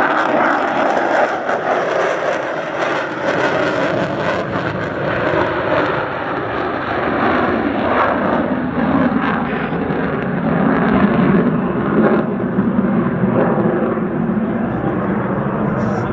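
Loud jet noise from the F-35A Lightning II's single Pratt & Whitney F135 engine on a low approach, the sound sinking lower in pitch over the second half as the jet moves away.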